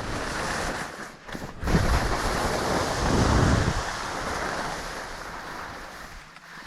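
Rushing noise of skiing downhill: skis sliding and scraping over snow with wind on the microphone, loudest about two to four seconds in and fading toward the end.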